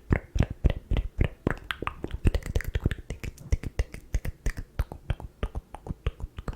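ASMR mouth sounds close to the microphone: a fast, uneven run of wet clicks and pops from the lips and tongue, several a second.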